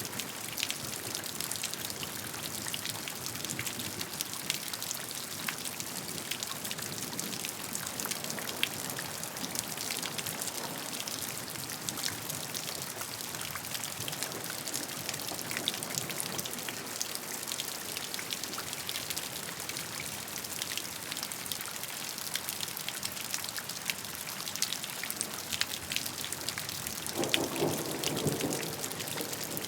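Steady rain falling, with many individual raindrops ticking sharply over an even hiss. Near the end a low rumble of thunder rises under the rain.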